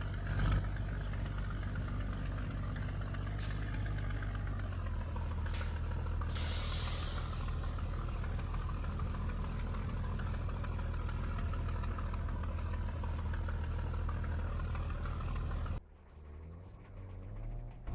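Scania G124 truck's straight-six diesel engine running steadily, with short hisses of compressed air from the air brake system about three and a half and five and a half seconds in and a longer hiss a couple of seconds later. The sound cuts off suddenly near the end.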